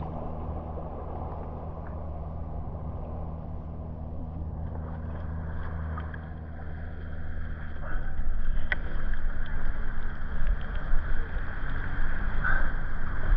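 Boat engine running steadily under a rushing wash of water and wind, which grows louder about eight seconds in.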